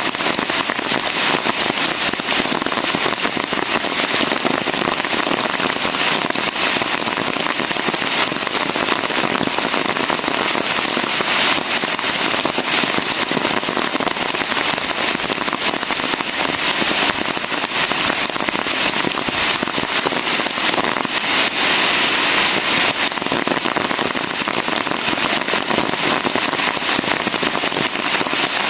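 Steady heavy rain, a dense, crackly patter of countless drops with no let-up.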